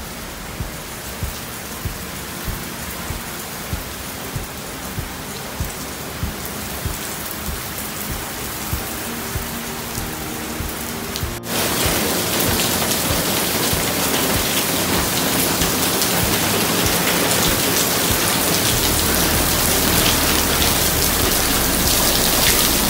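Heavy rain falling: a steady hiss with light tapping about every two-thirds of a second. About halfway through it jumps louder and closer, as rain pours off a wall and splashes onto a wet tiled floor.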